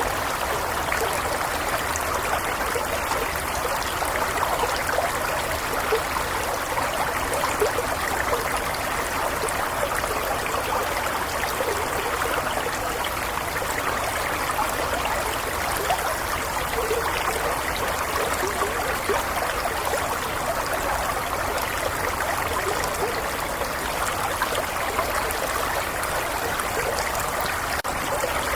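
A small stream flowing steadily over rocks, with a constant babble and fine trickling and splashing.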